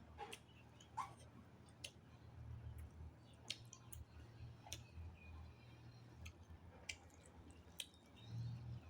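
Faint chewing and wet mouth clicks from someone eating, heard as a handful of short, sharp clicks at irregular intervals over a low steady hum.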